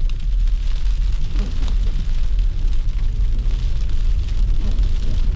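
Steady low rumble of a car driving on snowy streets, heard from inside the car.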